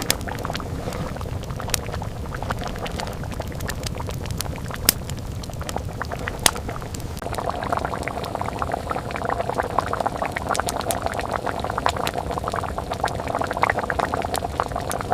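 Liquid bubbling steadily with scattered sharp clicks; the bubbling grows busier about seven seconds in.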